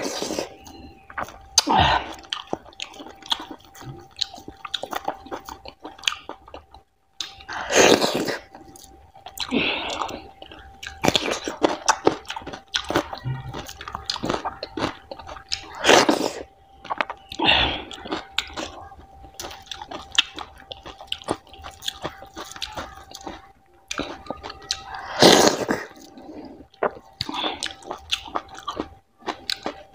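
Close-miked chewing and wet mouth smacks of someone eating fatty mutton curry with kodo millet dhido by hand: many small clicks and squishes, with a few louder, longer mouth noises spaced several seconds apart. A faint steady tone runs underneath.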